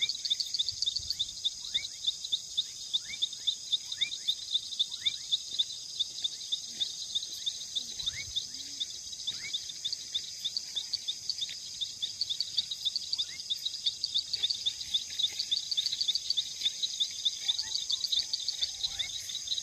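Insects, crickets or katydids, in a steady high-pitched evening chorus of rapid chirping, with a few short falling calls scattered through it.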